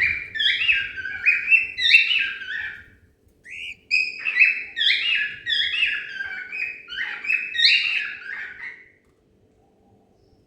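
Cockatiel whistling its song: two runs of quick, stepping whistled notes a second apart, falling quiet about nine seconds in.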